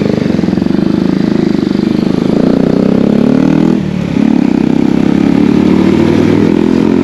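Bajaj Pulsar NS200's single-cylinder engine running loud under way, its exhaust note climbing in pitch as it revs up about two seconds in. The note dips briefly about four seconds in, then runs steady again.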